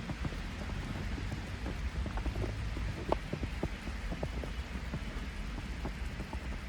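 Footsteps crunching through fresh snow, an irregular run of soft crackles over a steady low city rumble.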